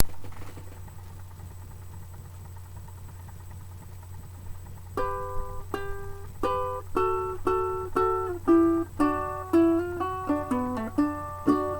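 Acoustic guitar picking a slow intro, single plucked notes starting about five seconds in and quickening into a fuller picked pattern. A low steady hum runs underneath.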